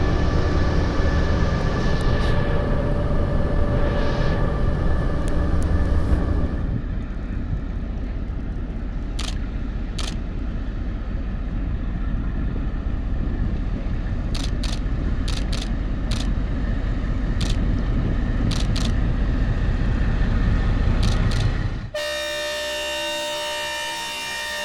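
Passenger train running: a loud low rumble with steady tones for about six seconds, then a quieter rumble with scattered sharp clicks. Near the end it cuts off abruptly to a different sound of several steady tones.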